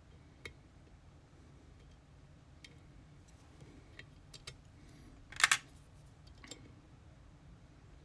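Small metallic clicks and taps of tools working on an EVVA Dual lock cylinder, a few scattered ticks with a louder short clatter about five and a half seconds in.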